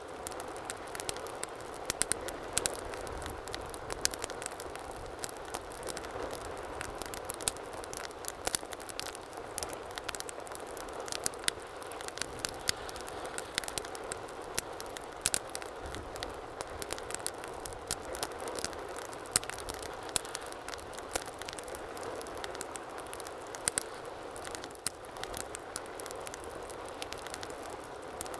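Wood fire in a fireplace burning with a steady low hiss and frequent, irregular sharp crackles and pops.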